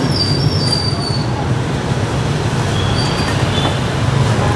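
Steady street traffic noise, a constant low rumble of passing engines, with brief thin high squeals near the start and again about three seconds in.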